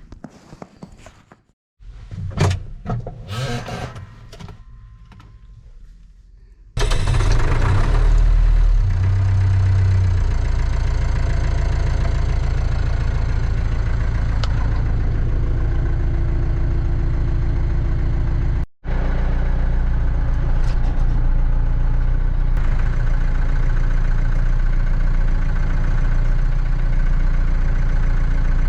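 A few scattered clicks and knocks, then about seven seconds in a tractor's diesel engine starts with a sudden loud burst, runs hardest for a couple of seconds and settles into steady running.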